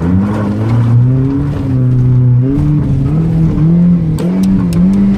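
Car engine revving hard under acceleration after a clutch launch, its pitch climbing, dropping back and climbing again several times as the driver works through the revs and gears.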